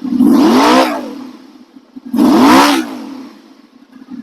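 2008 Honda VFR800's V4 engine idling and revved twice by the throttle, each blip rising in pitch and dropping back to idle within about a second. It is a freshly installed used engine on its first warm-up, running and revving cleanly.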